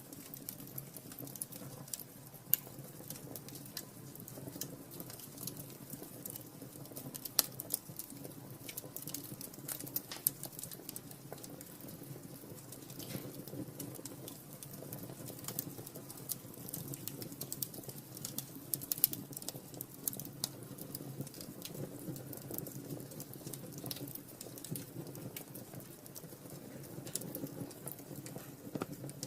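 Wood fire burning in a fireplace: constant irregular crackling over a low rush of flame, with a few louder sharp pops.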